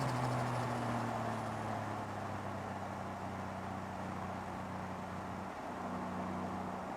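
Turbocharged 1JZ-GTE straight-six engine in a Toyota Crown Wagon, its revs falling back in the first moment and then idling steadily.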